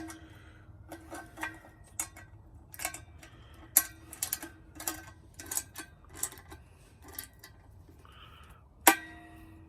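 Irregular metallic clinks and knocks of a wrench and bolt working against the steel vise stand, some hits leaving a short ring in the metal. The two hardest knocks come right at the start and near the end.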